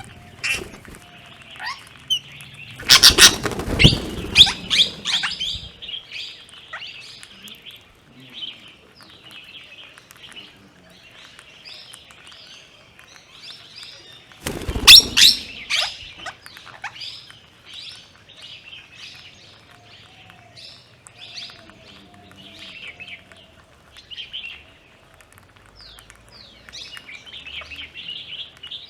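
Plum-headed parakeets and Himalayan bulbuls chirping and calling over and over in short, high notes. Two loud bursts of wing flapping come about three seconds in and again about halfway through.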